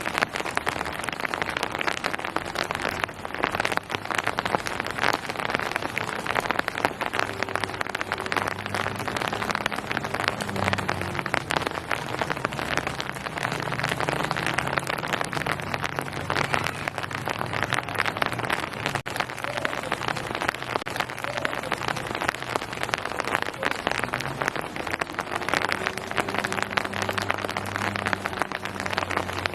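Steady rain falling, a dense, even patter of raindrops on surfaces, with a low hum underneath.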